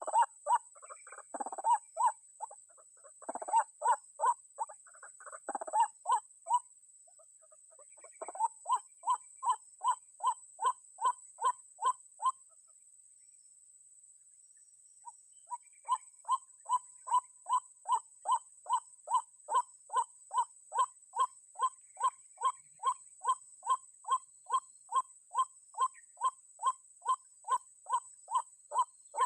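White-breasted waterhen (ruak-ruak) calls: a long, monotonous series of repeated croaking notes, about two a second. The notes are rougher and louder for the first few seconds, stop about twelve seconds in, and resume some three seconds later. A steady high-pitched buzz runs behind them.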